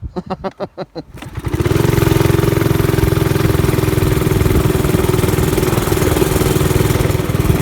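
Garden tractor's small gasoline engine: a second of rapid pulsing, then about a second and a half in it runs loud and steady with an even hum.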